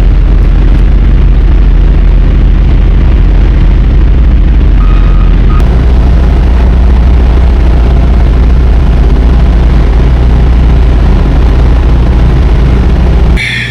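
Loud, steady low rumble of a semi truck's diesel engine running close to the microphone. A brief tone sounds about five seconds in, and the rumble drops away sharply just before the end.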